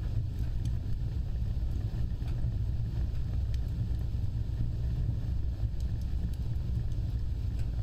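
Fireplace fire burning: a steady low rumble of flames with scattered faint crackles and pops.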